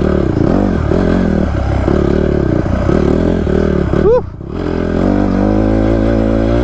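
Honda CRF150R's single-cylinder four-stroke engine revving up and down with the throttle while riding through sand. About four seconds in there is a quick rev that drops away briefly, then the engine settles into a steady note.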